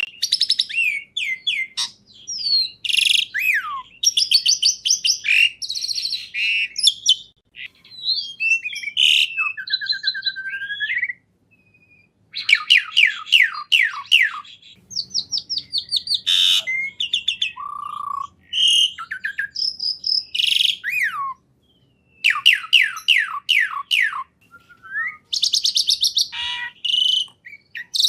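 A songbird singing a fast, varied song of rapid trills made of quick downward notes, mixed with short whistles and rising and falling slurs, broken by two brief pauses.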